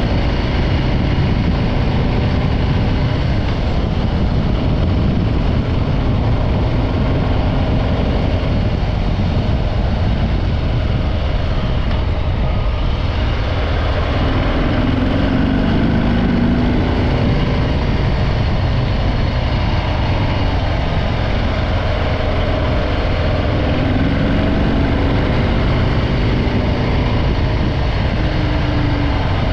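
Stock-exhaust Harley-Davidson Breakout 114's Milwaukee-Eight V-twin running steadily under way, with its pitch shifting briefly a couple of times as the throttle changes.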